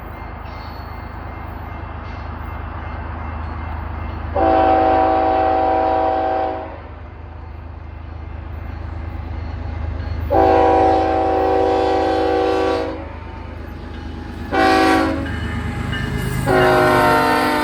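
Diesel locomotive's multi-chime air horn sounding the grade-crossing signal, two long blasts, one short and a final long one, over the steady low rumble of the approaching BNSF freight locomotive.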